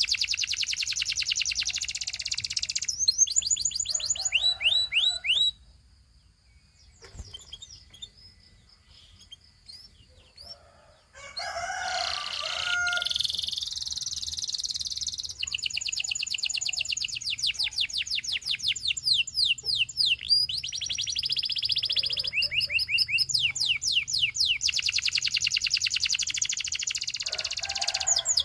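Canary singing: long rolling trills of fast, evenly repeated falling high notes, breaking off a few seconds in and returning with a harsher, rattling phrase before the trills carry on.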